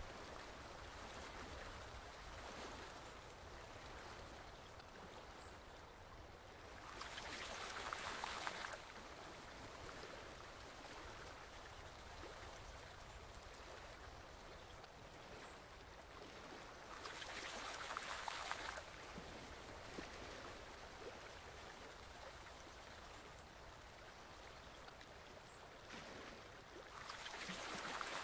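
Small stream flowing steadily with a soft, even rush of water that swells louder about every ten seconds, three times in all.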